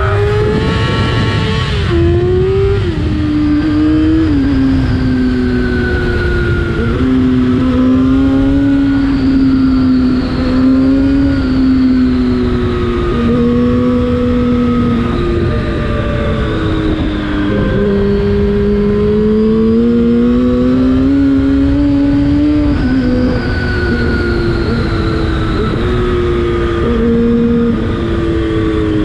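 Yamaha FZ6's inline-four engine through an Akrapovic exhaust, heard while riding. It is revving up hard at the very start, then drops in steps over the next few seconds and cruises with repeated small rises and falls in revs, over a low rush of wind.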